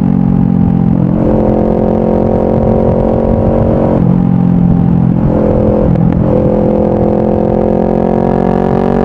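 Honda CBR500R's parallel-twin engine running through a Yoshimura full exhaust while riding. The steady note breaks off briefly three times, around a second in, about four seconds in and about six seconds in, then climbs gently in pitch near the end.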